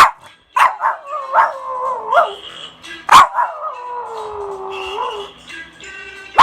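Dog howling on cue: two long wavering howls that slide down in pitch, the second held about two seconds, broken by short sharp yips. The yips at the start, about three seconds in and at the end are the loudest moments.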